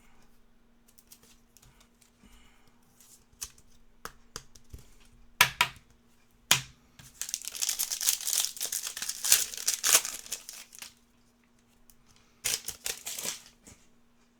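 Foil trading-card pack wrapper crinkling and tearing as it is opened by hand, for about four seconds near the middle. A few sharp clicks of cards being handled come before and after it.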